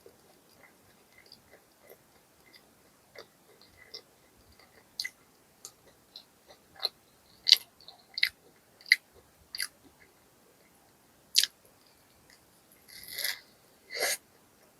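A person chewing food close to the microphone, mostly short, sharp wet mouth clicks. There are two louder noisy bursts near the end.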